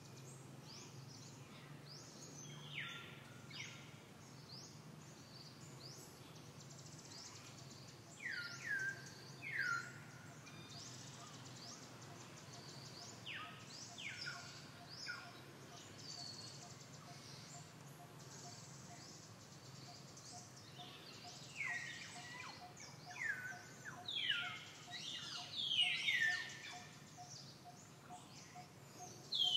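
Wild birds calling: short, high chirps that slide downward, coming in scattered clusters and busiest in the last third, over a faint steady background hum.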